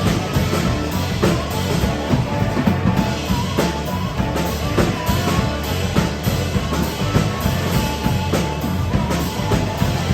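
Live band playing instrumentals, with the drum kit keeping a steady beat of kick and snare under the other instruments.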